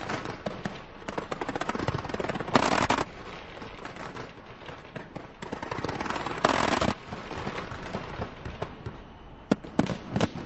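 A large fireworks display going off: a dense barrage of sharp cracks and bangs in quick succession. Two louder stretches of thick crackling come about two and a half and six and a half seconds in.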